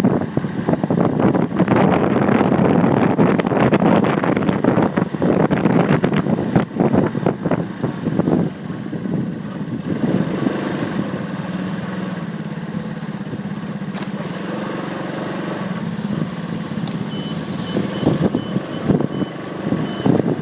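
Motorcycle riding in traffic, heard from a phone mounted on the bike: engine and wind noise, rough and loud for the first several seconds, then settling to a steadier engine hum about halfway through. A faint string of short high beeps near the end.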